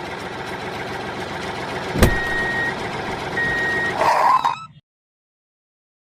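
A motor running steadily, with a sharp knock about two seconds in and two long high beeps like a reversing alarm; the sound then cuts off abruptly to silence.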